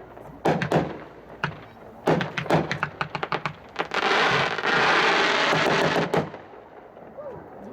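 Neon Strobe 18-shot, 200-gram consumer firework cake firing: a run of sharp reports that come faster and faster. They give way, about four seconds in, to some two seconds of dense crackling, which stops abruptly.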